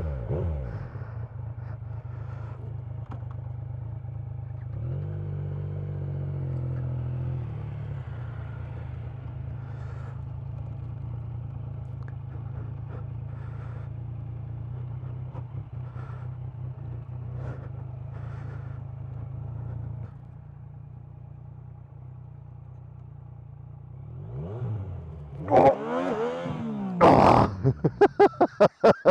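Motorcycle engine idling steadily, with a brief rev about five seconds in. Near the end the engine is revved up and down in quick rising and falling sweeps as the bike is turned on grass with too few revs.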